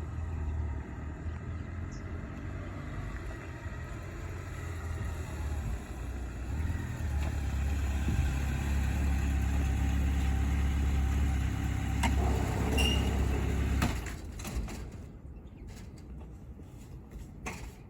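Loud vehicle engine running with a deep rumble, growing louder about halfway through and then falling away suddenly a few seconds before the end.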